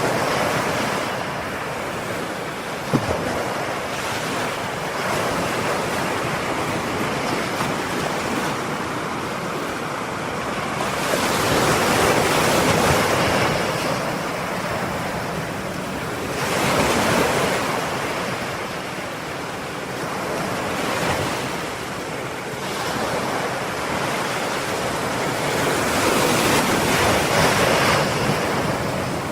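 Ocean waves breaking and washing on a shore, surging in a slow rhythm with three louder swells several seconds apart. A brief sharp click about three seconds in.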